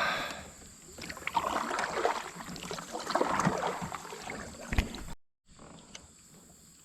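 A kayak being paddled through a shallow creek, with paddle and water splashing and small knocks against the hull for about four seconds. The sound cuts off abruptly about five seconds in.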